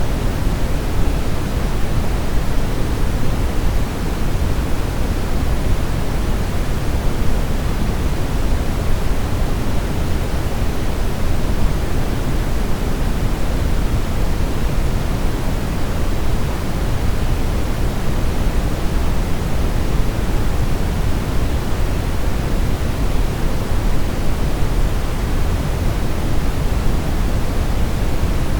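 Brown noise: a steady, deep hiss with most of its weight in the low end, unchanging throughout.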